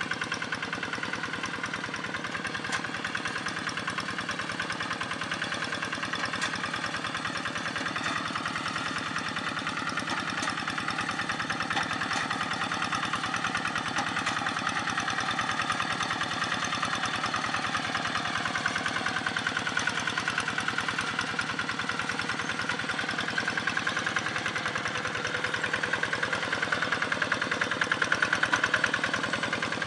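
Two-wheel hand tractor's single-cylinder diesel engine running steadily, a little louder near the end.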